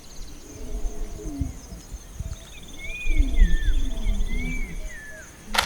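African bush soundscape: insects shrill steadily with a fast pulsing trill, a bird gives two curved whistled phrases, and low rising and falling calls sound underneath. A sudden loud hit cuts in just before the end.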